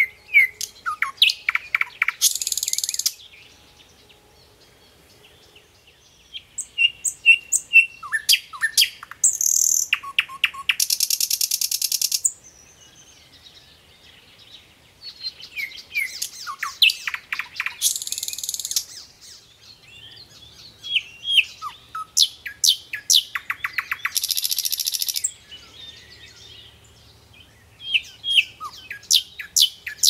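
Wild birds singing in repeated phrases: quick chirps and falling whistled notes mixed with high, rapid trills. Each phrase lasts a few seconds, with short quieter pauses between.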